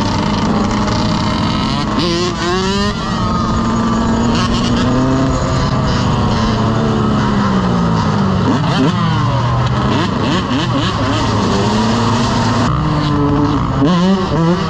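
Several motorcycle engines revving at once, their overlapping pitches rising and falling, with a few quick blips of revs near the end.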